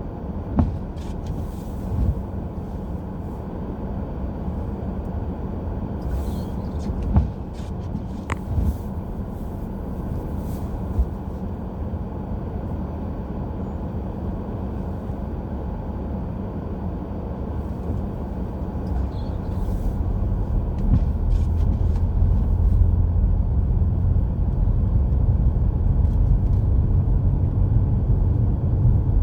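Car driving on a snowy road: a steady low rumble of road and engine noise with a few short knocks, growing louder about twenty seconds in.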